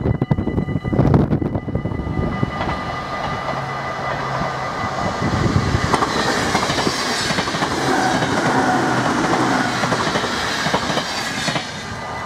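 Dutch NS Intercity train passing at speed over a level crossing, its wheels clattering on the rails amid a loud rush, while the crossing's warning bells ring steadily. The train noise drops away abruptly about eleven and a half seconds in, leaving the bells.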